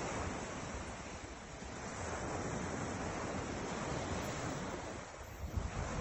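Ocean surf washing steadily, swelling and easing, with low wind rumble on the microphone.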